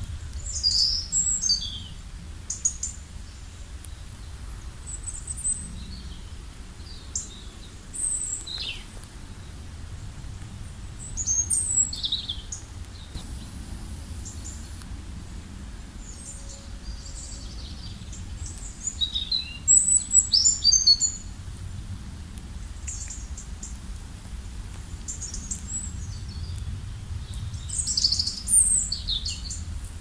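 Small songbirds chirping and singing in short, high-pitched phrases every few seconds, with the busiest bursts near the start, about a third of the way in, around two-thirds of the way through and near the end. A steady faint low rumble lies beneath.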